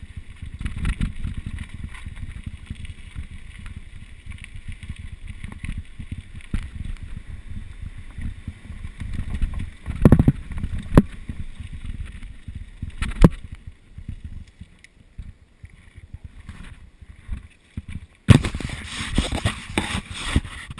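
Wind buffeting the microphone over the rattle and rumble of a mountain bike riding downhill on a rough trail, with a few sharp knocks around the middle and a louder rush of noise near the end.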